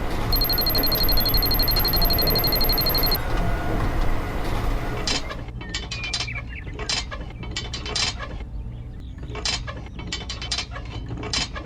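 A small geared motor on a miniature model machine whirs with a steady high whine for about three seconds. After that come irregular clicks and clatters of small mechanical parts.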